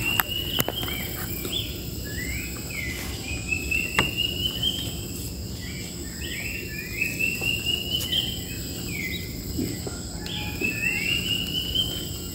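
A wild bird singing the same phrase over and over, a short trill that rises and runs on, about every three to four seconds, over a steady high insect drone. A few sharp clicks come near the start and once about four seconds in.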